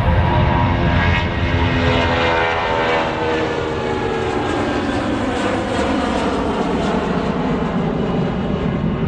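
Airliner-size aircraft passing close by, its engine tones falling steadily in pitch as it goes past over a broad engine rumble.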